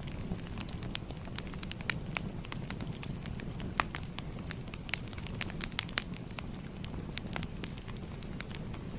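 Wood fire crackling: a steady low rumble with many sharp irregular pops and snaps.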